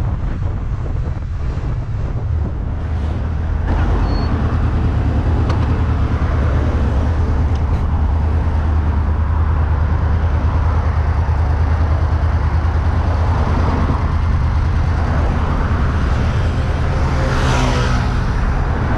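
Motorcycle riding in traffic, heard from the rider's own camera: a steady low engine and wind rumble, with a brief louder swell near the end.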